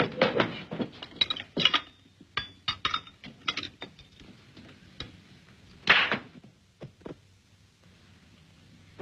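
A scattered series of short knocks and clinks from hard objects, busiest in the first few seconds, with one louder sharp hit about six seconds in.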